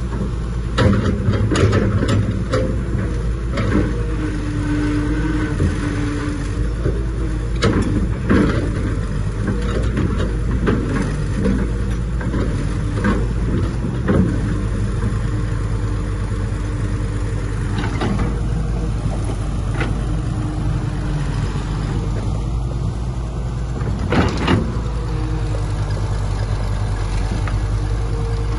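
Heavy diesel earthmoving machinery running steadily, its engine hum overlaid with frequent sharp knocks and clanks of metal.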